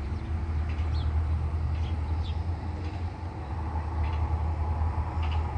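Freight train of covered hopper cars rolling slowly past: a steady low rumble from the cars, with several short, high squeaks scattered through it.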